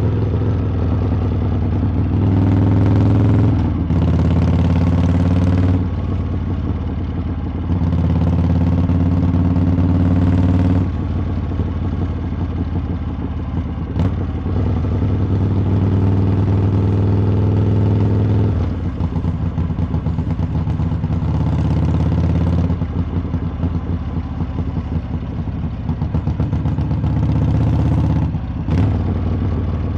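Harley-Davidson V-twin exhaust while riding, swelling louder several times as the throttle is opened and dropping back in between.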